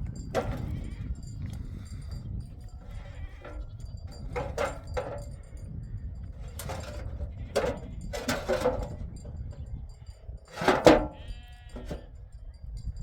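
Livestock bleating: a series of short bleats with gaps between them, the loudest about eleven seconds in, over a steady low rumble.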